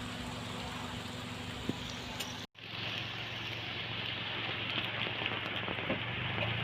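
Steady rain falling, an even hiss. The sound cuts out for a moment about two and a half seconds in, then the rain hiss returns brighter.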